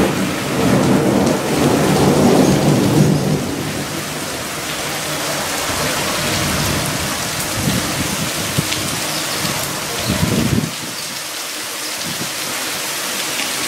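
Steady rain falling on a street and rooftops, a dense even hiss. A low rumble sits under it for the first three seconds or so and returns briefly about ten seconds in.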